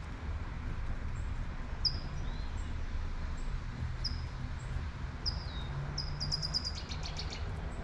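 A small bird singing: short high chirps that drop in pitch, repeating about once a second, with a quick run of rapid notes about six seconds in. Underneath runs a steady low rumble of city traffic with a light hiss of rain.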